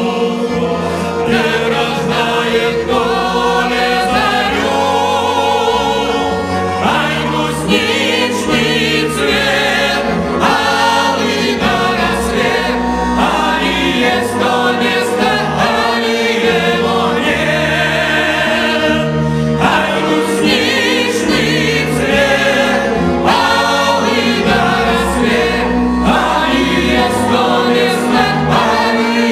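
Cossack song ensemble singing a folk song in chorus, several voices together.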